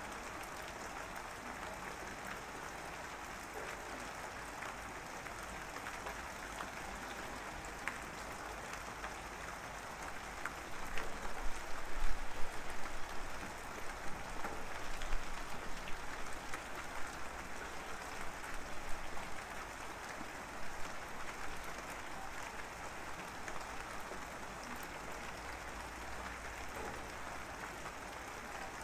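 Steady rain sound. About ten seconds in, an uneven, louder stretch of spiky sounds comes in over the rain and lasts about ten seconds.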